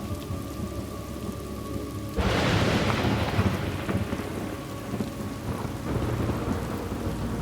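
Thunderstorm ambience: steady rain with a sudden thunderclap about two seconds in that rolls on and fades over the next few seconds.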